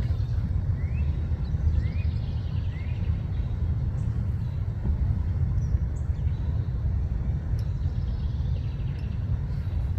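Steady low outdoor rumble, with three faint short rising chirps from a small bird about a second apart near the start.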